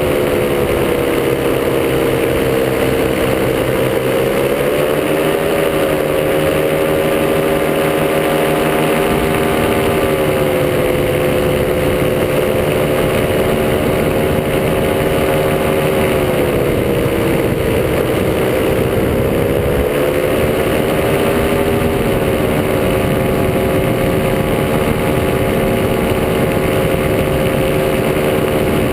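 Top 80 single-cylinder two-stroke paramotor engine running steadily in flight, its pitch easing down and back up a few times with small throttle changes, over a steady rush of wind noise.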